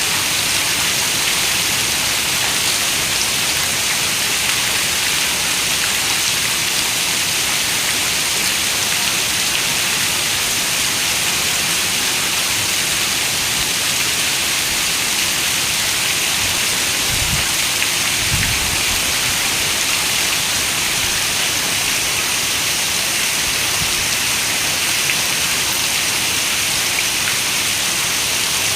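Steady, heavy rain hiss. A little past halfway, two short low rumbles come about a second apart.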